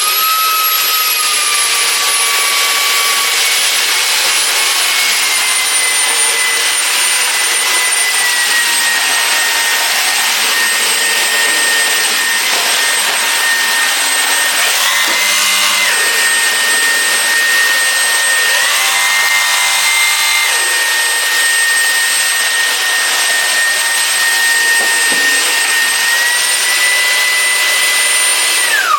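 Shark PowerDetect cordless vacuum cleaner's motor running with a high whine over a loud rush of air, switched on at the start and off near the end. The whine eases lower over the first several seconds, then steps up briefly twice midway.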